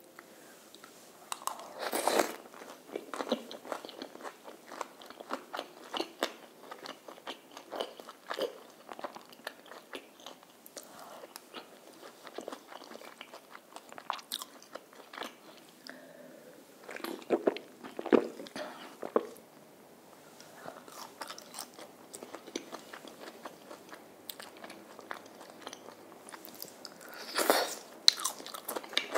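Close-miked eating of crispy fried chicken and seasoned french fries dipped in rose cream sauce: a steady run of small crunches and chewing clicks, with louder crunchy bites about two seconds in, again around the middle, and near the end.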